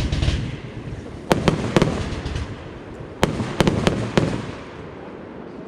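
Funke Blütenregen compound firework cake (Verbund) firing: sharp bangs in quick clusters, one at the start, three a little over a second in and four more between about three and four seconds in, then dying down near the end.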